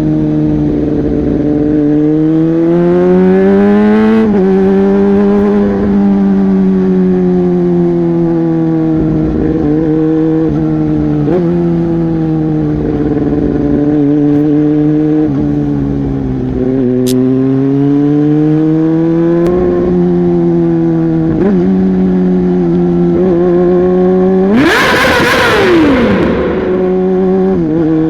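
Yamaha R15 V3's single-cylinder engine through a modified exhaust, running loud with its pitch climbing and dropping repeatedly in sudden steps. About 25 seconds in there is a brief, loud rush of noise with a falling tone.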